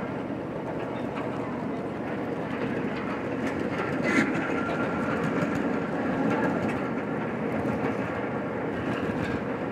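Train cars rolling along the track, heard while riding: a steady rumble and rattle with light clicking, and a short sharper sound about four seconds in.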